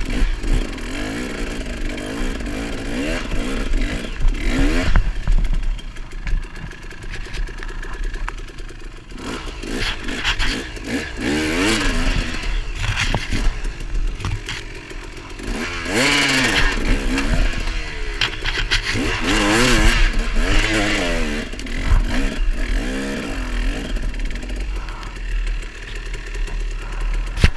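Off-road motorcycle engine revving up and down in repeated surges, its pitch rising and falling as the rider works the throttle on a slippery trail climb. The strongest surges come in the second half.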